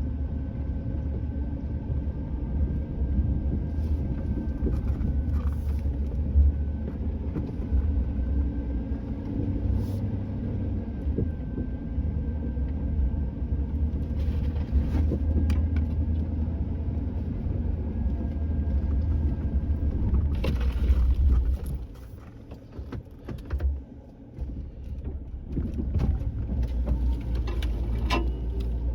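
A vehicle engine running steadily with a low rumble and a faint steady whine. The engine sound drops away for about three seconds past two-thirds through, then comes back.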